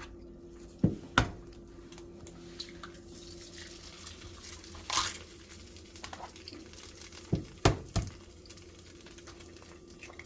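Brown eggs being cracked against a pan edge: two sharp taps about a second in and three more around seven and a half seconds, with a short burst of noise in between, over a steady low hum.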